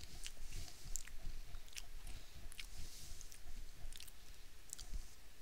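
A man chewing a mouthful of crunchy potato chips: irregular crisp crunches and crackles.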